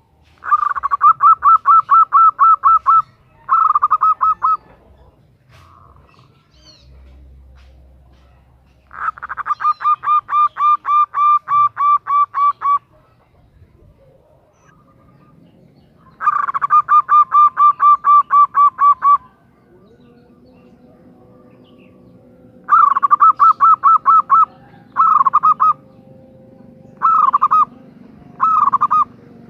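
Female zebra dove (perkutut) calling to attract a male: repeated phrases of rapid, evenly pulsed cooing notes. Three long runs of about three seconds come first, then shorter phrases close together near the end. A faint steady hum comes in about two-thirds of the way through.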